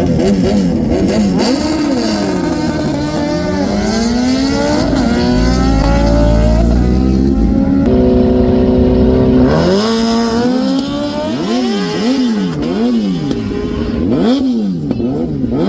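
Several high-performance engines revving at once, pitch climbing and dropping, with a steady held note in the middle and then a run of sharp throttle blips, about one a second, in the second half.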